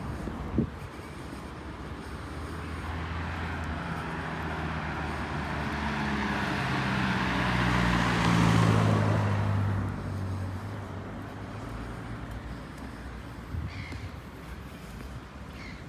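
A motor vehicle passing close by on a city street: engine and tyre noise swelling to a peak about eight seconds in, then fading away over a steady traffic hum.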